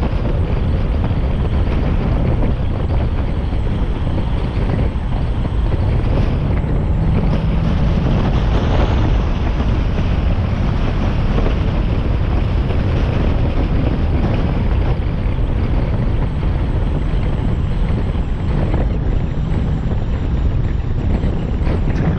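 Engine and intake noise of a Mazda MX-5 NB's four-cylinder, fitted with a K&N intake, driving at a steady pace, heard from a bonnet-mounted camera with heavy wind rushing over the microphone.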